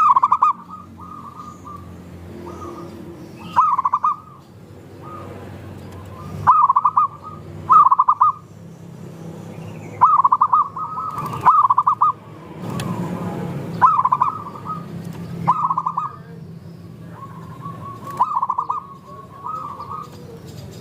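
Zebra dove (perkutut) cooing: short, loud, trilled coo phrases repeated every one to two seconds, over a softer low background.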